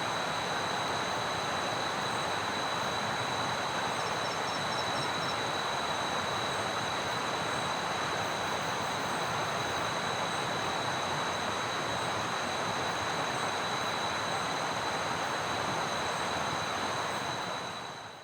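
Steady rush of heavy rain in a forest, with a thin, constant high whine above it; the sound fades out near the end.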